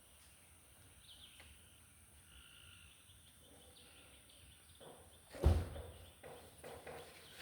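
Quiet outdoor ambience with a few short bird chirps early on, then a single loud thump about five and a half seconds in, followed by several softer knocks and rustles.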